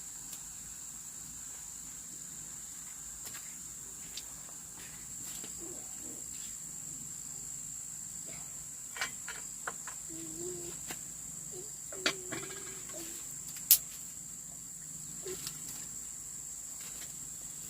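Steady high-pitched drone of insects chirring, with a few sharp clicks or taps in the second half, the loudest about twelve and fourteen seconds in.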